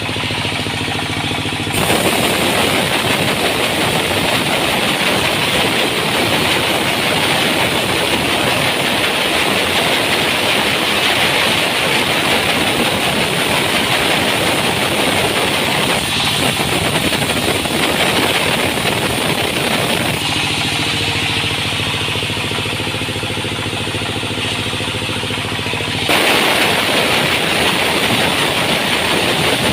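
Engine-driven sawmill running: a steady engine hum with a loud hissing saw-cutting noise over it. The cutting noise stops abruptly about two-thirds of the way through, leaving the engine alone for several seconds, then cuts back in.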